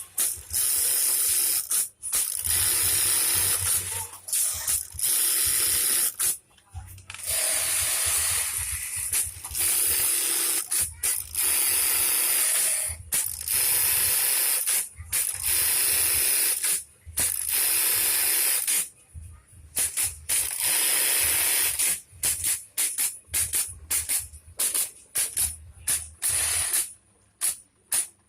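Juki LK-1850 bartacking machine running through repeated sewing cycles: a fast, even mechanical clatter lasting one to two seconds at a time, stopping and starting again. Near the end the runs become a string of much shorter starts and stops.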